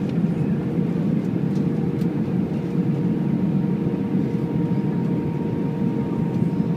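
Steady drone of an Airbus A319's engines and airflow heard from inside the passenger cabin, with a faint steady hum running through it; a second, higher hum grows stronger about five seconds in.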